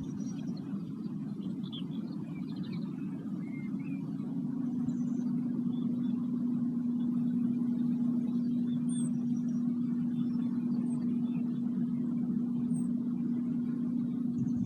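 A low, steady sustained tone from a sound-bath instrument, swelling in about four seconds in and held, over a low hum. Faint bird chirps sound here and there.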